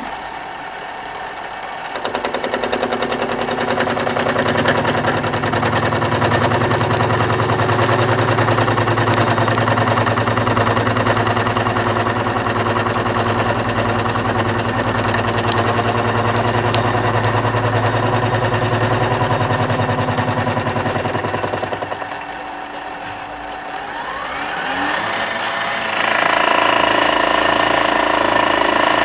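Milling machine running while cutting gear teeth, a steady machine hum with many held tones. About two seconds in it turns louder with a deep low hum that lasts until about twenty-two seconds in, then eases. A rising whine follows, and the machine runs steadily again, louder, near the end.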